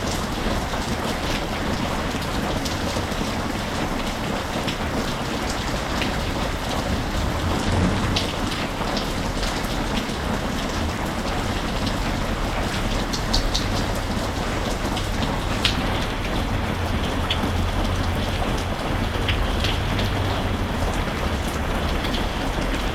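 Steady rain with individual drops ticking sharply on a surface, and a low rumble that swells in the second half.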